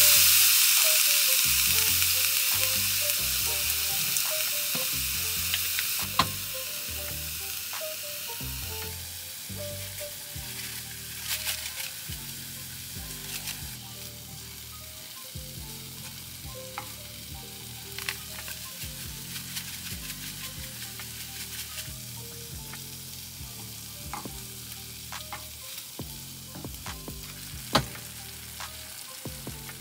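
Ground meat frying in a skillet on a gas camp stove. The sizzle is loud at first, just after water has gone into the hot pan, and fades over the first several seconds to a quieter steady frying. A plastic spatula clicks and scrapes against the pan now and then as the meat is stirred.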